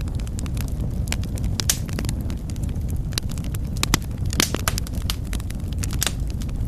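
Wood fire burning in a fireplace: a steady low rumble of the flames with irregular sharp crackles and snaps, a few louder pops about four and six seconds in.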